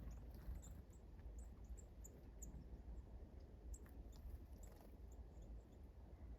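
Faint, short, high chips of small wild songbirds, scattered a dozen or so times, over a low steady rumble.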